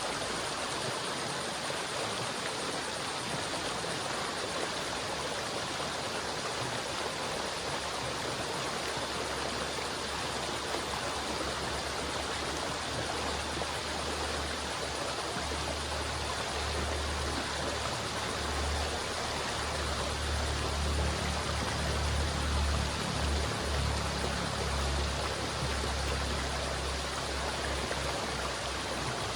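River water flowing in a steady rush, with a deeper low rumble that swells through the middle and eases toward the end.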